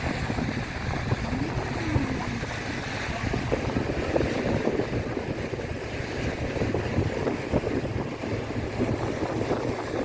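Boat under way: its engine running low and steady, with water rushing past and wind buffeting the microphone.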